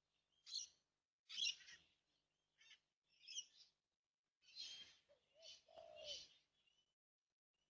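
Wild birds calling at a backyard bird bath: a series of short, faint, scratchy calls with brief chirps, the loudest about a second and a half in, and a lower gliding call near the end.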